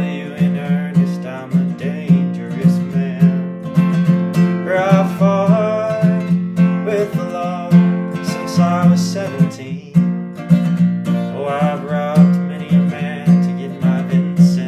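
Solo acoustic guitar played fingerstyle: a steady, evenly pulsing bass note under picked melody lines with bent notes, in an instrumental passage.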